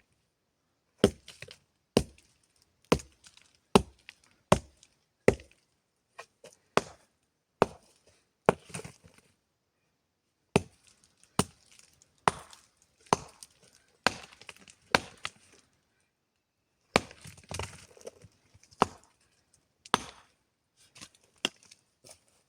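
Wood being chopped by hand: sharp single blows, about one a second, in runs with short pauses about ten and sixteen seconds in.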